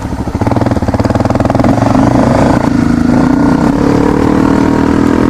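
Single-cylinder four-stroke engine of a 2013 Honda CRF250L dirt bike running, its pitch climbing slowly in the second half as it picks up revs.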